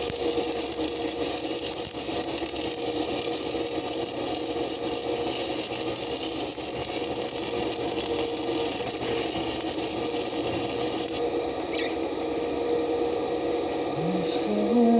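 Stick (shielded metal arc) welding: a steady crackling hiss over an engine's steady drone. The high hiss stops about 11 seconds in, leaving the drone running.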